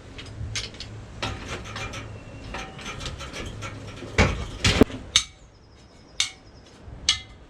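Metal scrap being knocked and handled while it is stripped apart: a run of light clanks and taps, with a few hard metallic hits about four to five seconds in, one of them ringing briefly.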